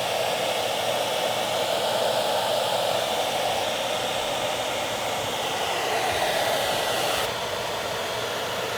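Handheld electric hot-air blower running steadily, blowing hot air onto a frozen water pipe to thaw it. Its sound shifts slightly about seven seconds in.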